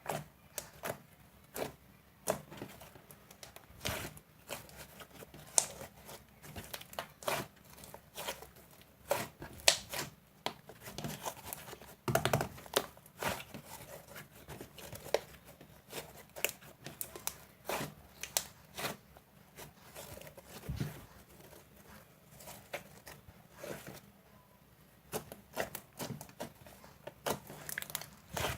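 Slime being squished and stretched by hand, making irregular sticky pops and crackles, several at a time, some much louder than others.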